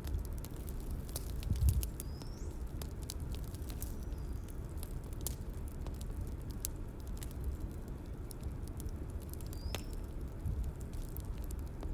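Bonfire crackling, with frequent small sharp pops over a low rumble and a few brief high whistles. A soft low thump about two seconds in.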